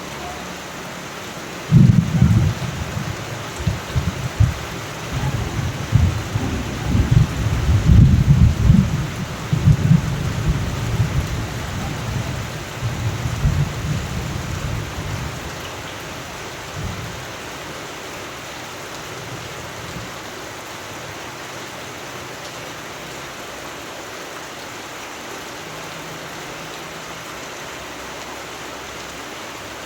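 Steady rain with a thunderclap about two seconds in, its low rumble rolling on in swells for some thirteen seconds before dying away into the rain.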